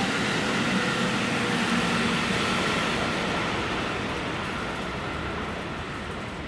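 Electric train passing, with a steady rumble and a faint whine. It fades gradually as the train moves away.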